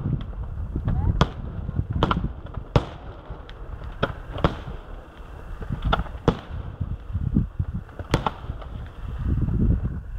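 Aerial firework shells bursting, about nine sharp bangs at uneven spacing, some in quick pairs, over a constant low rumble.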